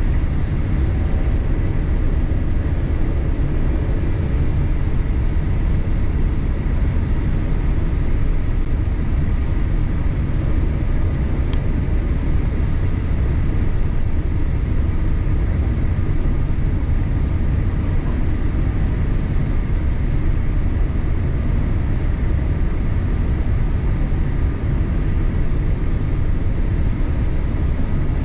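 Steady cabin noise inside a Boeing 787-8 airliner: a low, even rumble of engines and airflow with faint steady tones above it.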